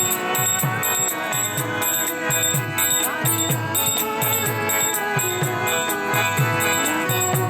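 Kirtan music: a hand drum keeps a steady beat while small hand cymbals clash in time over steady held instrumental notes, in the pause between chanted lines.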